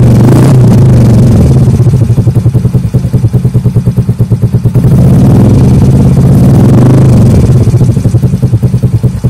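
Yamaha Mio i 125 scooter's single-cylinder four-stroke engine revving through an Akrapovic slip-on muffler with its silencer insert removed, loud and close at the outlet. It is held up at the start, drops to a pulsing idle about two seconds in, is revved again around five seconds, then falls back to the pulsing idle near the end.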